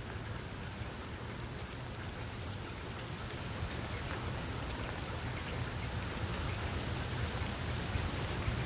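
Steady rain falling, a dense hiss with scattered sharper drop ticks over a low rumble, growing gradually a little louder.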